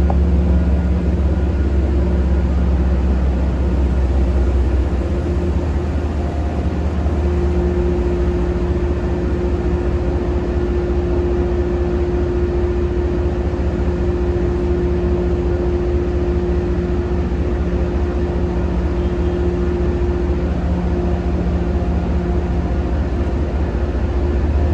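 Diesel locomotive engine running with a steady, loud, low drone.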